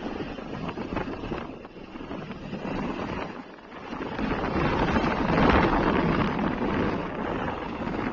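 Road traffic noise with wind buffeting the microphone, swelling louder about four seconds in.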